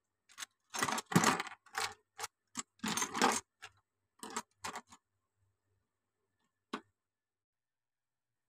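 Plastic Lego bricks being handled, with a run of short clicks and rattles over the first five seconds and one more click near the seventh.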